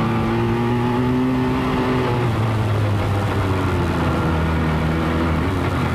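Motorcycle engine running while riding, heard from on the bike. Its pitch rises slightly, drops about two seconds in, and settles lower from about four seconds in.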